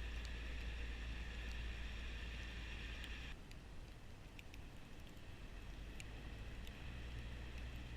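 Kubota B2650 compact tractor's three-cylinder diesel running steadily while working a front-mount snowblower. A higher whine cuts off abruptly about three seconds in, leaving the low engine hum, with scattered light ticks throughout.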